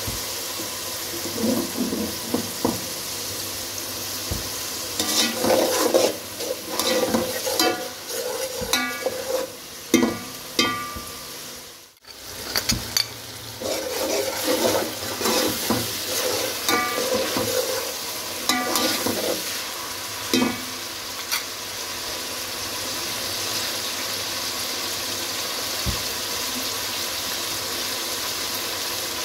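Food frying in hot oil in a pot, a steady sizzle, with a metal spoon stirring and scraping against the pot in bouts. The sound drops out briefly about halfway through.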